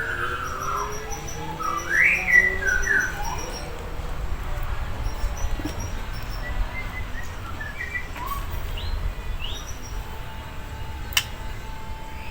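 White-rumped shama giving short whistled notes that slide up and down, loudest about two seconds in and sparser afterwards. A sharp click comes near the end over a steady low rumble.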